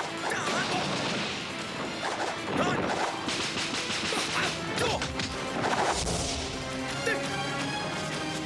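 Martial-arts fight sound effects: a fast run of hits, crashes and swishes. Film score music comes in underneath near the end.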